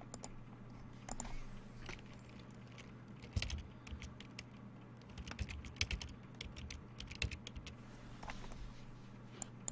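Computer keyboard typing: scattered keystrokes and clicks, irregular and spread through, over a low steady hum.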